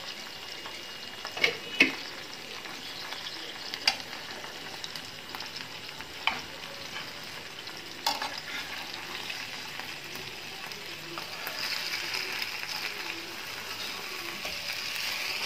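Marinated chicken legs shallow-frying in ghee on a non-stick pan, sizzling steadily, with a few sharp clicks of a utensil against the pan as the pieces are turned over. The sizzle grows louder over the last few seconds.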